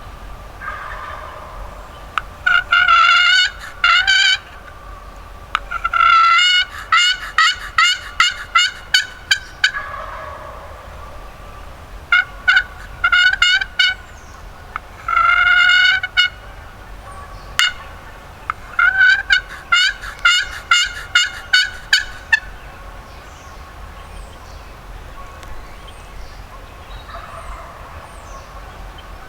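Loud wild turkey calling: several runs of quick, evenly pitched notes, five bursts in all, that stop a little over two-thirds of the way through.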